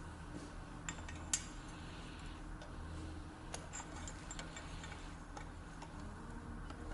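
Scattered faint, light metallic clicks and taps, as of tools or a metal workpiece being handled, over a low steady hum.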